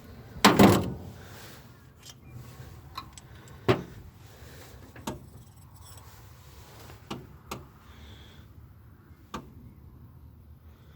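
Tools and engine parts being handled during engine repair: a louder clatter near the start, then about five separate sharp knocks and clinks spread through the rest.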